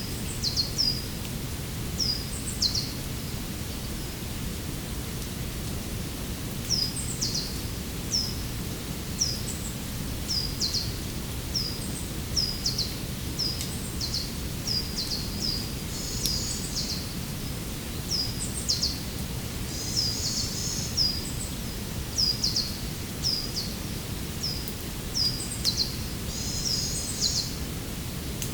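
Small forest birds giving short, high, sharply falling chirps, repeated every second or so, with a few busier twittering phrases. Under them runs a steady low rushing noise.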